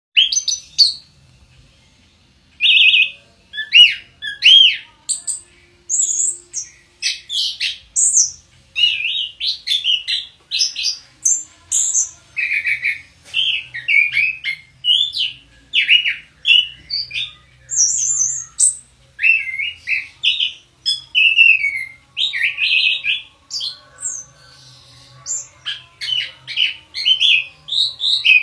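Orange-headed thrush (anis kembang) singing a long, nearly unbroken run of varied, quick whistled notes and slurred phrases, with a brief pause near the start.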